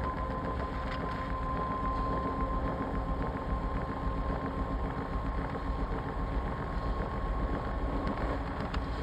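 Washing machine running: a steady mechanical hum with a constant thin whine held at one pitch.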